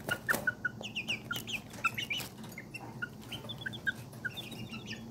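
Young chicks peeping busily while feeding: many short, high cheeps, several falling in pitch, overlapping from more than one bird, with a few light ticks of pecking at feed.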